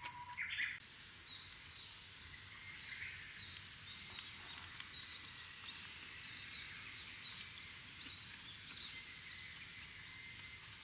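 Faint outdoor ambience of small birds chirping repeatedly, high-pitched, over a thin steady high tone, with one louder call in the first second.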